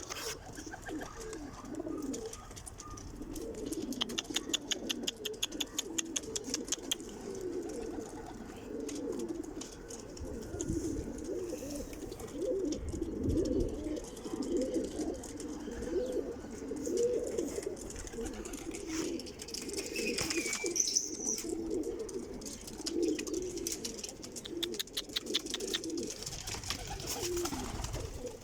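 Many domestic pigeons cooing together in a continuous, overlapping chorus. A rapid clatter of clicks cuts in twice, a few seconds in and again near the end.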